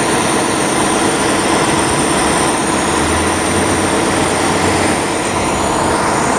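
Loud, steady rumble and hiss of a large vehicle going by, with a faint low hum under it.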